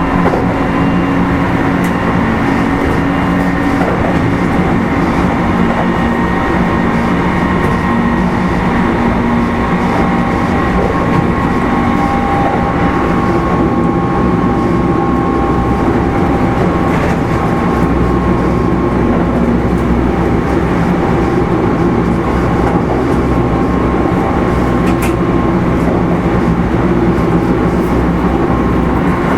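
Kintetsu 5200 series motor car running along the track, heard from on board: a steady rumble of wheels on rail with a hum and whine from the motors and gearing. The low rumble grows heavier a little over halfway through.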